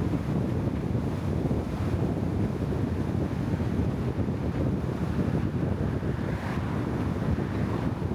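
Wind buffeting the microphone: a steady low rumble with small surges and no distinct events.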